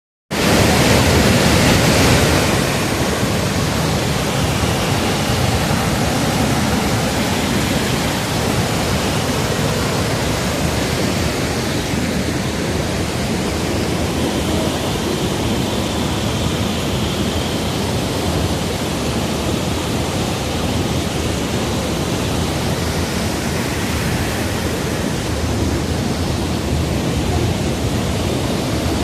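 Waterfall rushing, a loud, steady wash of falling water, a little louder for the first couple of seconds.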